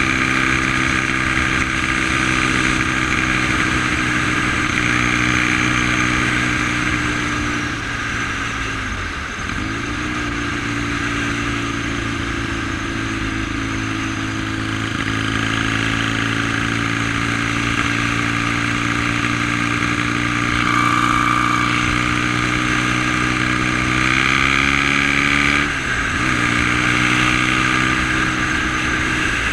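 1971 BSA Lightning's 650 cc parallel-twin engine running steadily, its note creeping slowly higher, with two brief sharp dips and recoveries, about nine seconds in and again near the end.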